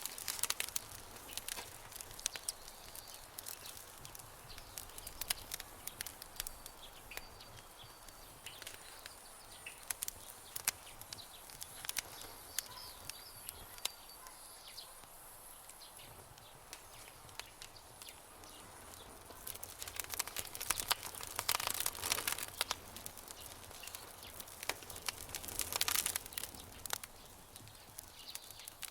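Wood fire crackling with scattered sharp snaps and pops, thickening into denser bursts of crackling about two-thirds of the way through and again near the end. Faint bird chirps sound in the background during the first half.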